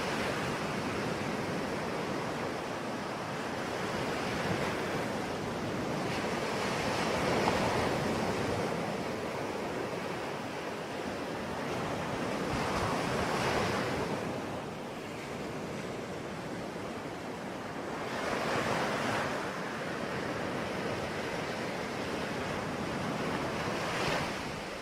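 Sea waves breaking and washing on a shore in a steady continuous wash, with a swell of surf about every five to six seconds.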